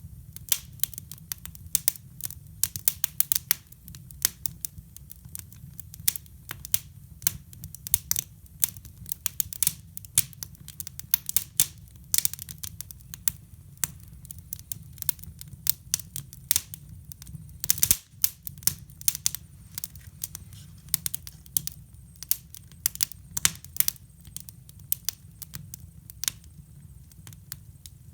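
Wood fire burning in a hybrid fireplace, crackling and popping in quick, irregular snaps over a low, steady rumble.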